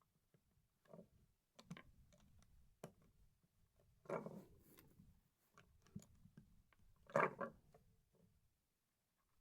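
Plastic LEGO pieces clicking and clattering faintly as they are handled and fitted together during a build, with two louder clatters about 4 and 7 seconds in.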